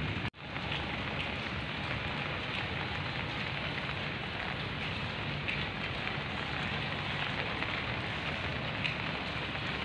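Steady rain falling on grass and leaves: an even hiss with a patter of drops. The sound cuts out for an instant about a third of a second in, then returns.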